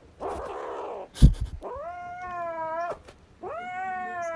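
A cat yowling: two long, drawn-out calls, each lasting over a second. A sharp thump about a second in comes before the first call.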